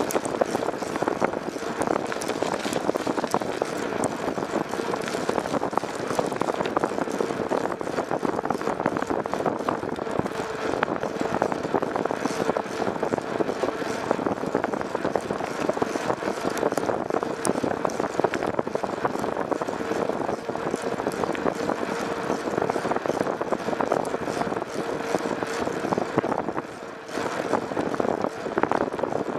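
Steady road and wind noise from a moving vehicle, with a faint steady hum and a short lull near the end.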